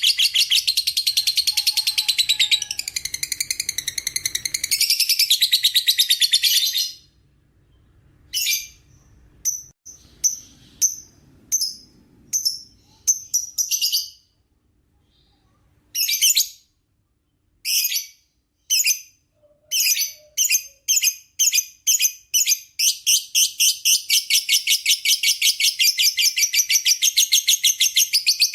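Lovebird ngekek: a long, rapid, shrill chattering trill. About seven seconds in it breaks off into scattered single chirps. The chirps then come faster and faster, from about one every second, until they merge into continuous chatter again for the last five or six seconds.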